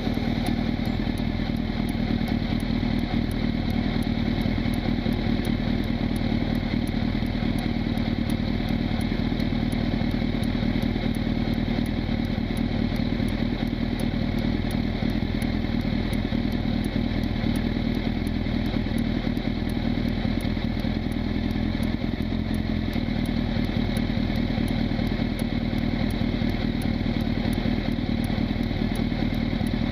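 Honda CB1000SF's inline-four engine running at a steady engine speed, with no revving up or down.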